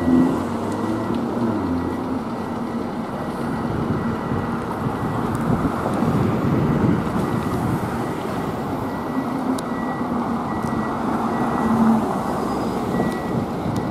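Fire engine's diesel engine running at low speed while it backs into the firehouse, with its backup alarm beeping steadily over it.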